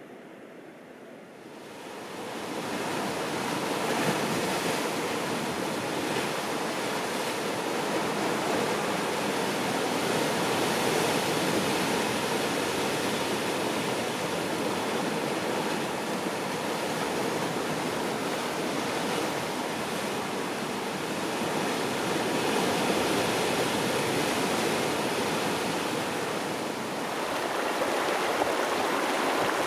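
Steady rushing water, fading up about two seconds in and then holding level.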